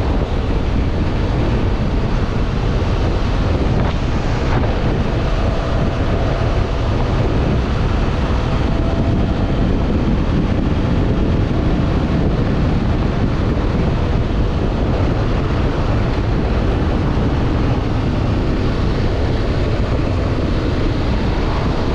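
Wind rushing over the microphone while riding a 2025 CFMoto Ibex 800 E motorcycle, its parallel-twin engine running steadily underneath.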